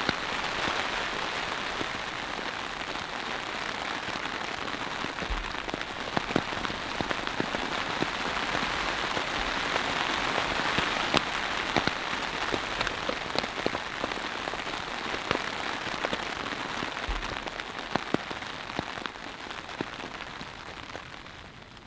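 Heavy rain pouring steadily, with scattered sharper drops striking close by.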